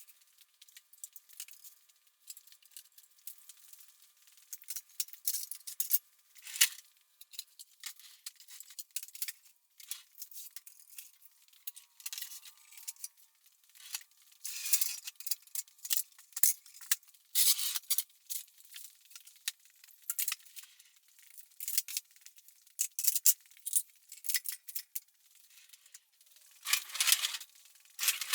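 A busy run of clinks, rattles and knocks from woodworking tools and metal parts being handled and packed away, thin-sounding with no low end.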